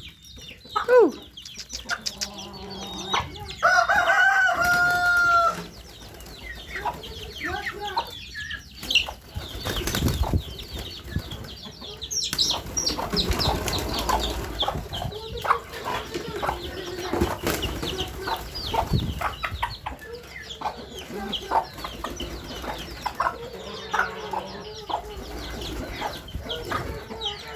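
Domestic birds gathered at feed: a mix of calls, wing flaps and small pecking clicks, with one loud drawn-out call about three seconds in that lasts around two seconds.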